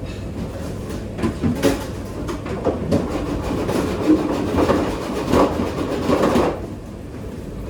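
Rattling and clattering of kitchen work over a steady rumble, busier and louder from about a second in until near the end.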